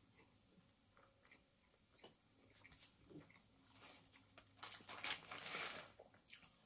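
Person chewing a croissant filled with meat and cheese: faint mouth clicks, then a louder stretch of crackling lasting over a second, starting about four and a half seconds in.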